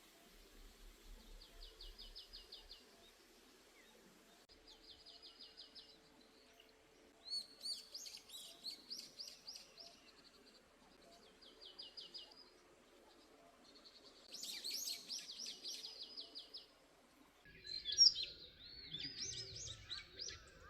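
Songbird singing a repeated phrase of rapid high notes, five phrases each a second or two long with short pauses between. Near the end the sound changes suddenly to a busier, louder mix of bird calls.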